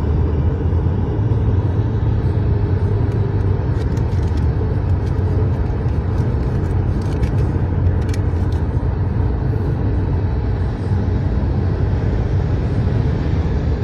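Steady low road rumble of a car driving, with a few faint ticks about four and eight seconds in.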